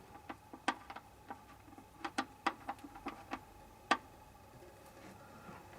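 A dozen or so light, irregular clicks and taps, sharpest in the first four seconds, from hands and tools working at a drain under the engine.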